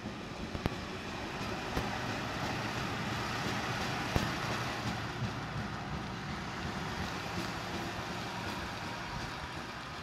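Train passing: a steady rush of running noise that swells a few seconds in and then eases slightly, with a few sharp clicks.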